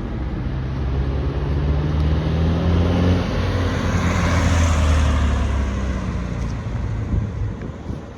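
A car driving past, its engine note rising slightly as it approaches, loudest about four to five seconds in, then fading away.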